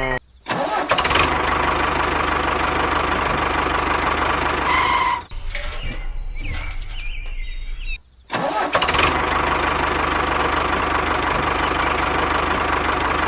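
An engine running steadily, in spliced stretches that cut off briefly about half a second in, near five seconds and just after eight seconds. A short high tone sounds at about five seconds.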